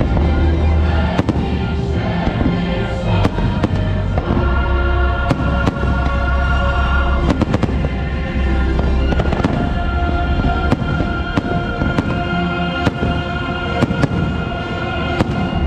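Fireworks show: the show's soundtrack music playing loudly with fireworks bursts cracking and booming over it every second or two.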